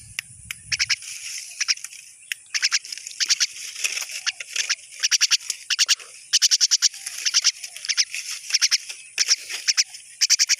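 Animal calls in the vegetation: trains of rapid, high-pitched clicks, each about half a second long, repeating over and over. A brief low rumble sounds in the first second.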